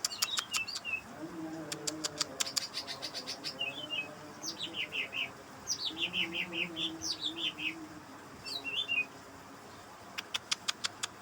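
Green leafbird (cucak ijo) singing: rapid dry ticking series, and falling whistled phrases that break into quick notes.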